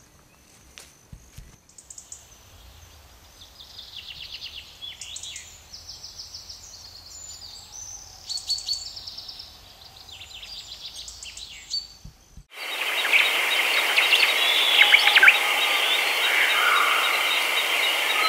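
Songbirds chirping and singing short, fast trills. About twelve and a half seconds in, they give way suddenly to a louder, steady hiss-like noise with a high ringing band through it.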